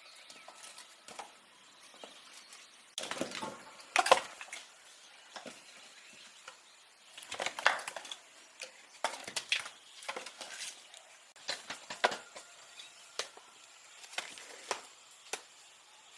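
Irregular knocks, clicks and rustling, like objects being handled and set down, with the loudest clusters about three, four and eight seconds in.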